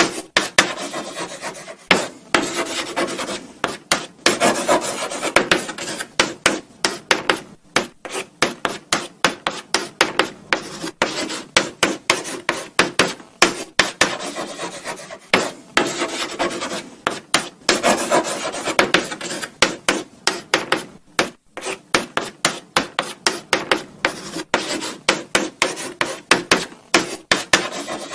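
Chalk writing on a blackboard: a quick run of short scratching strokes and taps as letters are formed, with brief pauses between words.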